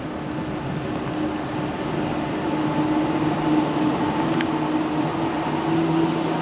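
Train running along an elevated viaduct: a steady rumble with a low hum, getting louder over the first few seconds as it passes.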